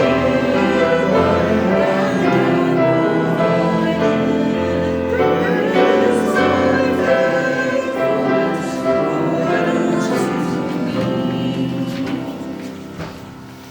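A choir singing in a church service, the music fading away near the end.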